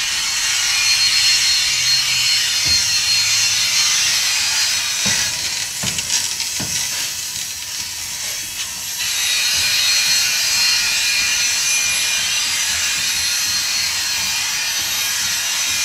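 Freight cars rolling past: steel wheels on the rails make a steady rushing hiss. A few sharp clacks come about five to seven seconds in as wheels cross rail joints.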